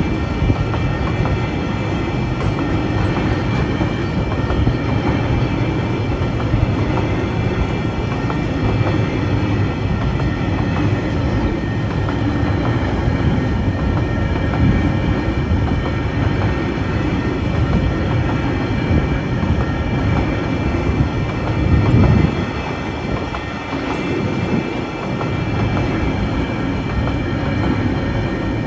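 Empty flat wagons of a freight train rolling past close by: a steady rumble and clatter of steel wheels on the rails. It swells briefly a little over three-quarters of the way through.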